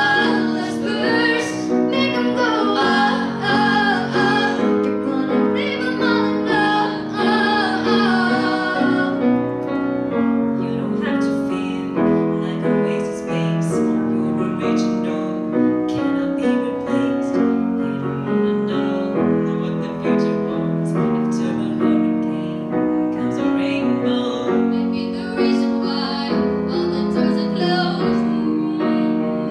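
A female voice singing over piano accompaniment; the voice drops out about nine seconds in and the piano carries on alone with sustained chords.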